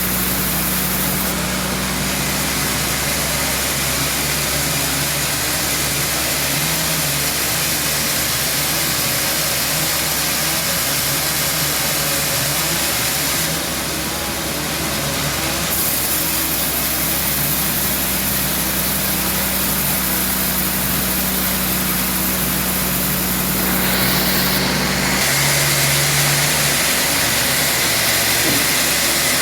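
Band sawmill running, a continuous machine hum with a steady hiss over it. The sound shifts briefly about halfway through and changes again near the end.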